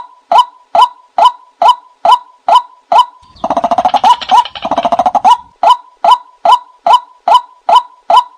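Recorded call of the bird known in Thai as nok kai na, played as a lure for trapping: a short pitched note repeated evenly about two and a half times a second. Just past three seconds in it breaks into two runs of faster, rattling notes lasting about two seconds, then the steady series resumes.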